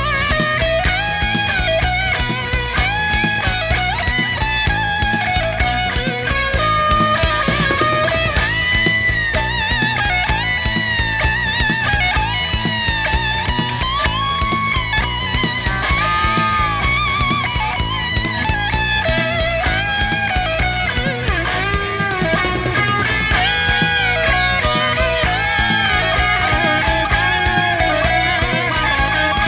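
Electric guitar playing a lead melody with vibrato and bends over bass and drums: an instrumental passage of late-1970s hard rock.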